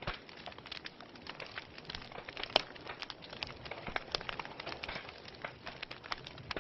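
Wood fire crackling, with irregular small snaps and pops over a soft hiss. One sharper pop stands out about two and a half seconds in.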